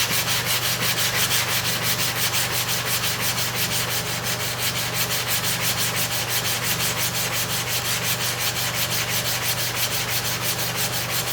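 Hair-clipper comb blade being ground back and forth on an oiled sharpening stone dressed with abrasive powder: a steady, rhythmic scraping of quick, even strokes, pressed hard.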